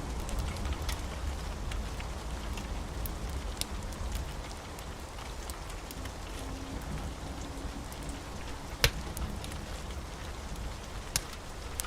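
Steady rain with a deep, even rumble beneath it, and scattered sharp pops from a crackling wood fire; the loudest pop comes about nine seconds in.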